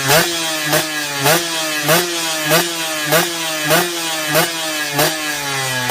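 Yamaha Y125Z's single-cylinder two-stroke engine with a racing expansion-chamber exhaust, its throttle blipped over and over, about every 0.6 seconds. Each blip gives a sharp rise in revs, which fall away before the next one.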